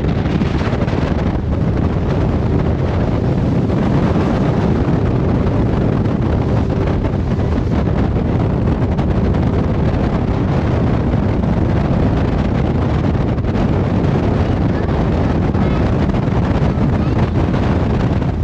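Jet boat running at speed, its engine and rushing water buried under heavy wind buffeting on the microphone, a steady loud noise throughout.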